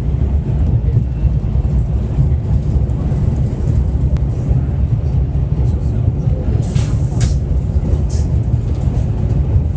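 Passenger train running, heard from inside the carriage as a steady low rumble, with brief hissing swells about seven and eight seconds in.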